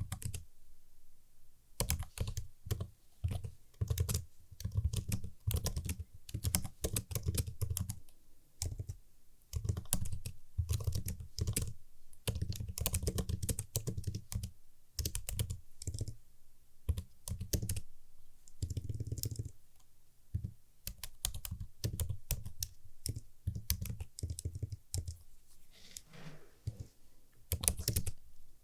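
Computer keyboard being typed on in quick bursts of crisp key clicks with brief pauses between runs.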